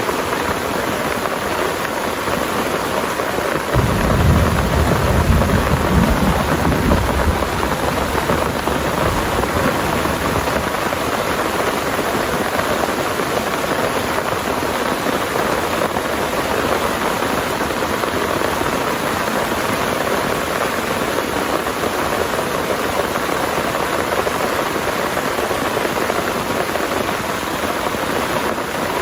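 Heavy rain pouring steadily. About four seconds in, a roll of thunder rumbles deep and low for several seconds, then fades back under the rain.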